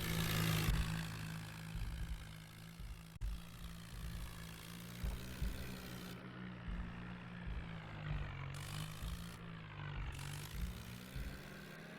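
Swaraj 744 tractor's diesel engine running at a steady speed, with a low, even hum. Its tone sweeps up and down in places, as happens when the tractor moves near the microphone.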